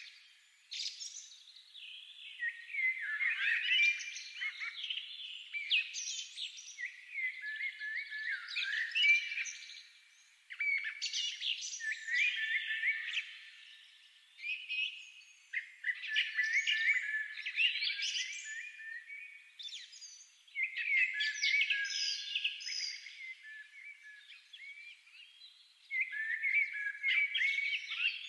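Small songbirds chirping and singing in phrases lasting a few seconds, with short gaps between.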